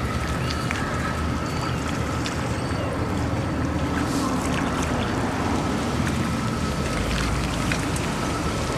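Steady outdoor rumble and wind noise on the microphone, with no clear single source.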